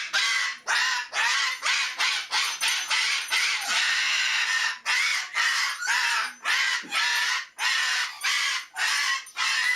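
A bird squawking over and over in harsh, raspy calls, about two a second.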